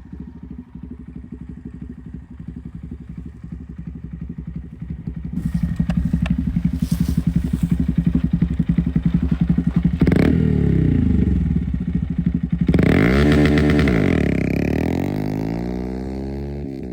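Honda Monkey 125's single-cylinder engine through an Akrapovič titanium slip-on exhaust, running at a low, pulsing idle, then getting louder about five seconds in. Near the end its pitch climbs and falls back, trailing off steadily lower.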